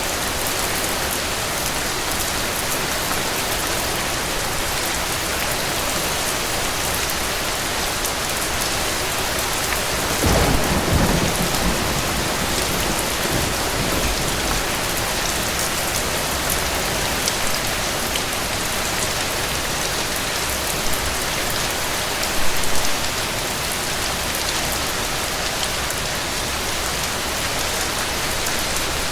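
Rain falling steadily as an even, continuous hiss of drops. About ten seconds in, a low rumble swells for a couple of seconds, and there is a brief louder patter around two-thirds of the way through.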